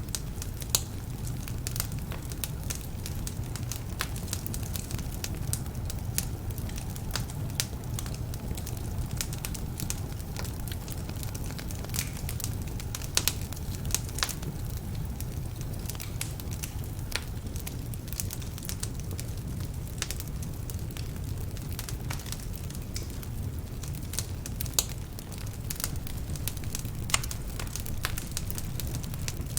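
Wood fire burning in a fireplace: a steady low rumble of flames with frequent sharp, irregular crackles and pops, a few louder than the rest, from logs that are slightly damp.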